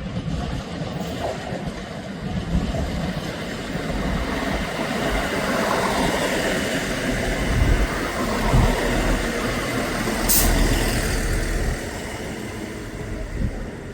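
Diesel train running at a station platform, a steady engine noise that swells in the middle, with a short hiss of air about ten seconds in.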